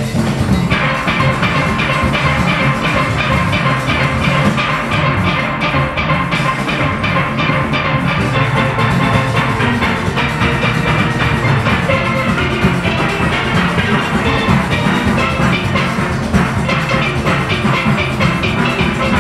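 A large steel band of about 40 players playing steelpans together over a driving rhythm section of drums and percussion, with a fast, even beat throughout.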